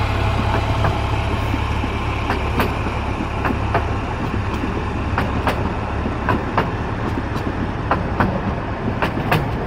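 Narrow-gauge passenger coaches rolling by, their wheels clicking sharply and unevenly over the rail joints. Under the clicks runs the low hum of the diesel locomotive's engine, which fades about two-thirds of the way in as the engine draws away.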